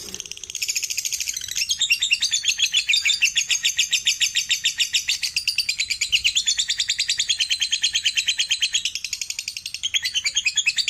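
Lovebird chattering in a long unbroken run of rapid, high-pitched notes: the 'ngekek' song that bird keepers prize.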